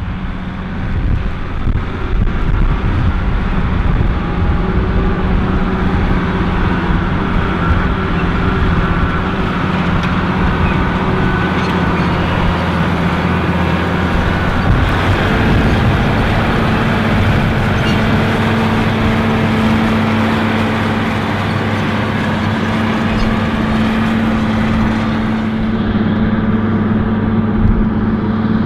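Allis-Chalmers 7080 tractor's six-cylinder turbocharged diesel running steadily under load, pulling a nine-shank mulch tiller through the soil. About halfway through, the engine note rises slightly.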